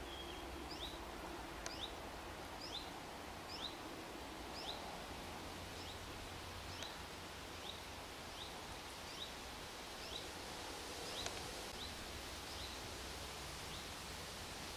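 A small bird calling with short, high, rising chirps, about once a second and stopping near the end, over a steady outdoor hiss.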